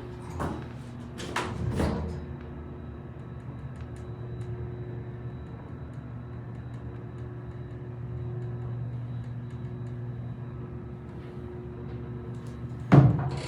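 Elevator car moving between floors: a steady machinery hum with several steady tones, a few short knocks in the first two seconds, and a sudden loud sound near the end.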